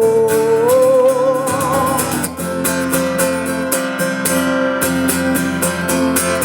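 Live song: a sung "whoa" is held with vibrato and ends about two seconds in, over a strummed acoustic guitar that then carries on alone.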